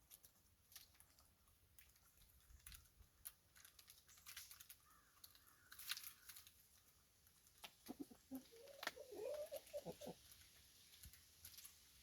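Chickens clucking softly: a short run of low calls about eight seconds in, with faint scattered clicks.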